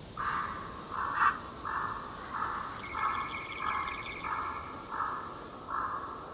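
A bird calling: a series of about nine rough calls, evenly spaced roughly two every three seconds, with a second, higher chattering call joining in the middle.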